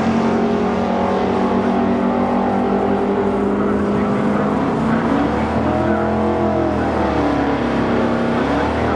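Drag-racing car engines idling at the starting line, with one engine revving up and back down about five seconds in.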